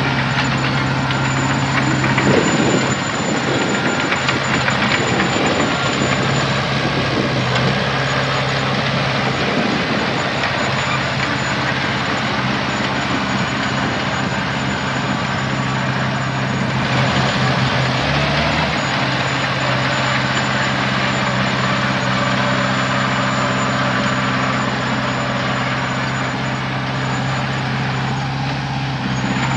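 Heavy diesel engine of earthmoving machinery running steadily, its low note shifting briefly about two-thirds of the way through.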